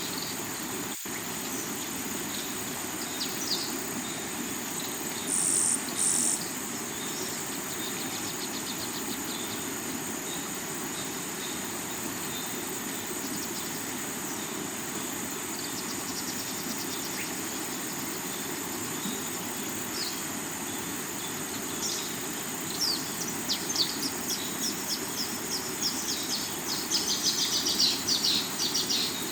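Rocky river flowing steadily under a constant high insect trill, like crickets. Birds chirp: two brief high calls about five seconds in, then a run of quick chirping in the last several seconds.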